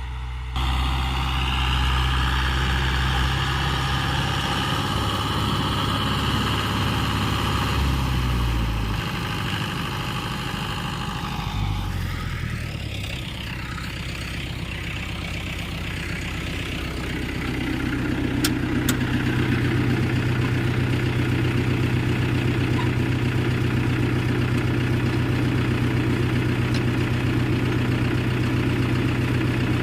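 Mahindra tractor's diesel engine running steadily. Its note shifts and dips about a third of the way in, then settles into a louder, even run for the rest.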